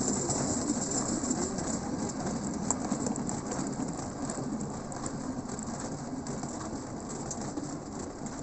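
A 1945 pedal rail-cycle draisine rolling along the track: steady rumbling and rattling of its wheels on the rails, with many faint light clicks.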